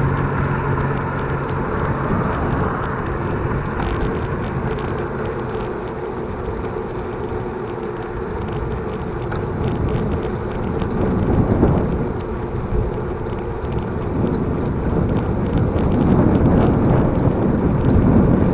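Wind rushing over the microphone and tyre noise of a bicycle rolling along a smooth paved road at about 20 km/h.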